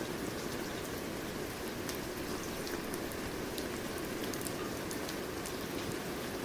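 Steady rain falling on a surface, with a dense even patter and scattered individual drop ticks.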